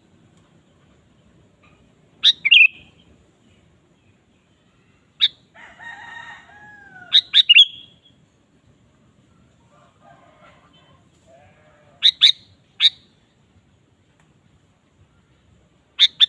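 Sooty-headed bulbul (kutilang) giving short, sharp calls in quick groups of two or three, spaced several seconds apart. About six seconds in there is a lower, drawn-out call with a gliding tone.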